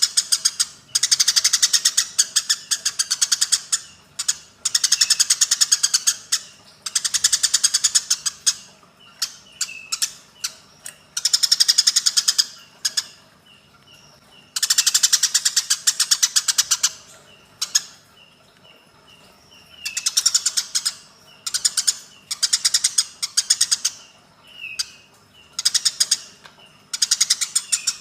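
Eurasian tree sparrows giving fighting calls: bursts of very rapid chirping, each lasting a second or two, repeated after short pauses, with softer single chirps between the bursts.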